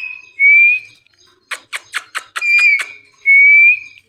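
Ringneck parrot whistling: several short, clear whistle notes of about half a second each, with a quick run of sharp clicks at roughly four a second in the middle.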